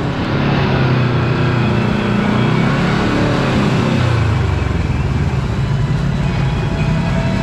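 Kawasaki KRX4 1000 side-by-side's parallel-twin engine running under way on a dirt trail, its note rising and falling as the throttle changes.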